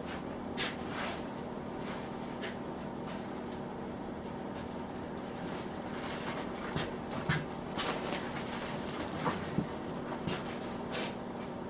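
Scattered light clicks and knocks of metal machine parts being handled during reassembly of a Bridgeport milling machine's saddle, over a steady low hum.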